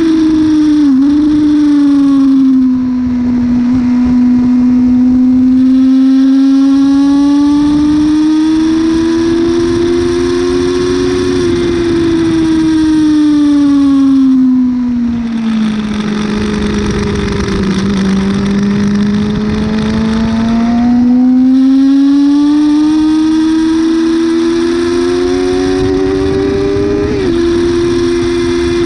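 Yamaha YZF-R6's inline-four engine heard from onboard at track speed, with wind rush over it. The engine note sinks as the bike slows into a second-gear corner around the middle, climbs again as it accelerates out, and drops a step at an upshift near the end.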